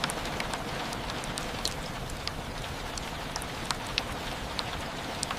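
Steady rain: an even hiss of rainfall with many sharp, close drops tapping irregularly through it.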